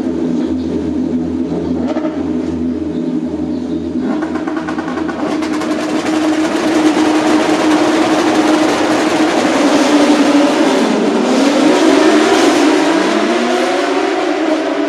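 Racing car engine at speed, its steady note growing louder about five seconds in, dropping in pitch around eleven seconds, then climbing again as it accelerates.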